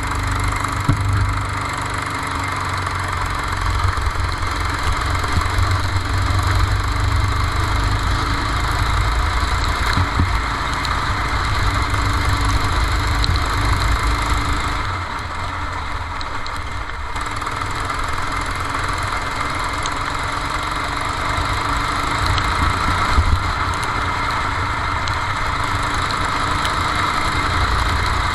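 Go-kart engine running under way, heard from onboard the kart, easing off briefly about halfway through before picking up again.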